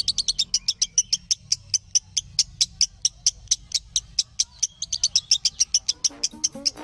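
Lovebird chirping in a fast, unbroken run of sharp, high chirps, about seven a second. A lower-pitched sound joins in near the end.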